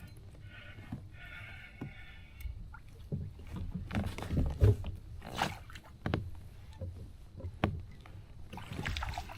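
Handling noises in a fishing kayak: irregular knocks and thumps against the hull over a low rumble of wind or water, the loudest thump about halfway through.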